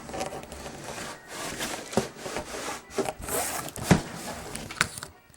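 Cardboard box being opened and handled to unpack a box fan: scraping and rubbing of cardboard, broken by about four sharp knocks, dying away shortly before the end.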